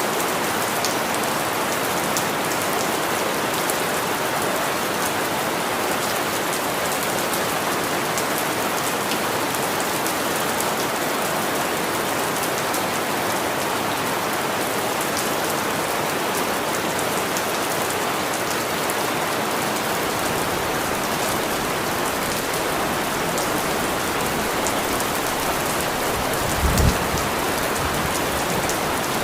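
Steady rain falling, an even dense hiss of drops. A short low thump sounds once near the end.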